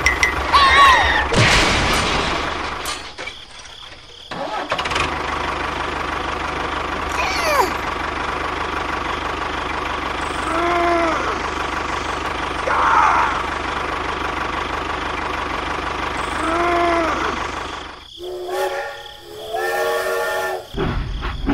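Tractor engine running steadily, with a few short rising-and-falling squeaky calls over it. Near the end a train horn sounds, several tones at once, for about three seconds.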